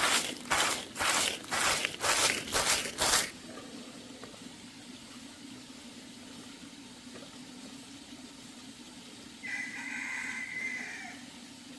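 Rhythmic scraping strokes, about two a second, that stop about three seconds in, followed by a steady low hum and a brief high tone near the end.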